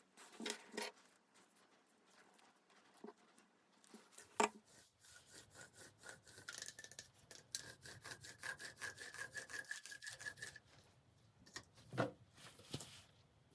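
Metal being worked on a small lathe setup: about six seconds of rhythmic scraping with a steady high whine that cuts off abruptly, set between scattered clicks and knocks of tools and parts.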